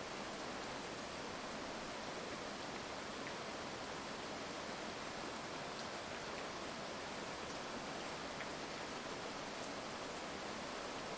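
Steady heavy rain: a dense, even hiss with a few faint drop ticks.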